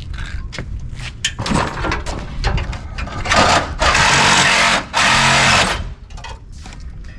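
A power cutting tool run in two bursts, starting about three and a half seconds in: the first lasts about a second and a half, then a short break, then a second one under a second long. Short metallic clanks of parts being handled come before and after.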